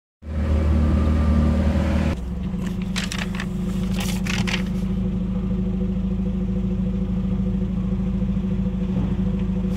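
Jeep engine idling steadily, heard from inside the cab. The low rumble is louder for the first two seconds, then settles a little lower. Brief crackling noises come at about three and four seconds in.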